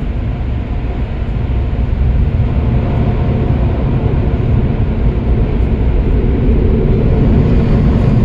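Automatic car wash machinery heard from inside the car's cabin: a steady, loud rumble and rush, growing louder about two seconds in.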